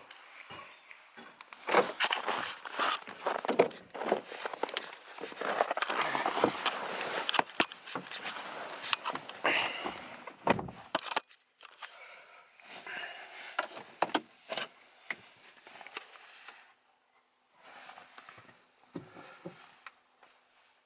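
Footsteps with irregular crunching, rustling and clicks; no engine running. The noises are dense for about the first eleven seconds, then sparser and quieter.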